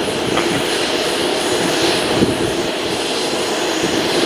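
Jet airliner engines running, a steady loud noise that does not change.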